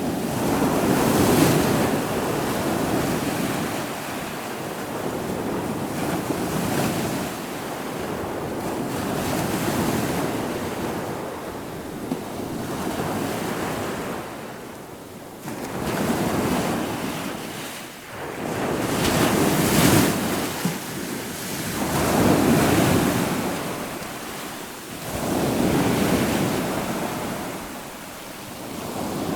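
Ocean waves breaking and washing in, the surf swelling and falling back every three to four seconds, with wind noise on the microphone.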